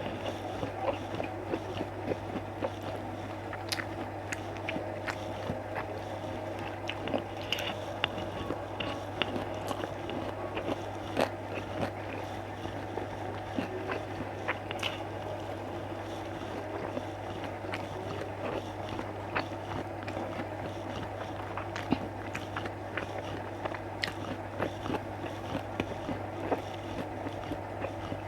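Close-up mouth sounds of a person chewing and biting food, with many short scattered clicks, over a steady low hum.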